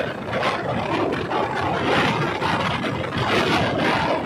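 Diesel multiple-unit train running along the track: a steady noise of the moving train with fine, irregular rattling through it.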